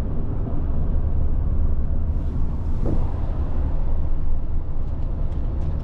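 Steady low rumble of a car travelling at road speed, tyre and engine noise heard from inside the cabin.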